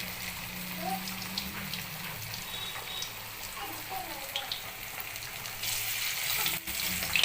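Pieces of marinated boneless chicken frying in hot oil: a steady sizzle with small crackles and pops, growing louder about six seconds in.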